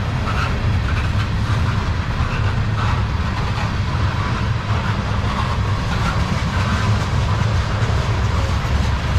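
Freight train of railroad tank cars rolling past: a steady low rumble of steel wheels on the rails, with brief higher-pitched wheel noises coming and going.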